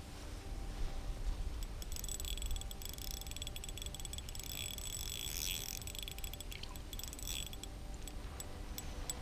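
Spinning reel being wound, a fast fine ticking with a light gear whine that lasts about five and a half seconds as the line is retrieved. Low wind rumble on the microphone throughout.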